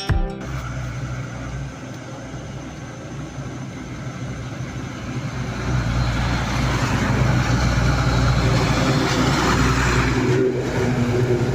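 Motorcycle on the road, its engine running with road and wind noise, swelling louder a little past halfway as it picks up speed and easing off near the end.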